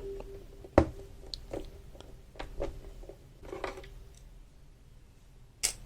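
Phillips screwdriver working a screw out of a plastic sewing machine housing: scattered small clicks, scrapes and ticks, with a sharp click about a second in and another near the end.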